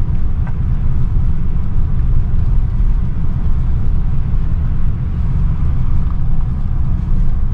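Steady low rumble of a car on the move, road and engine noise heard from inside.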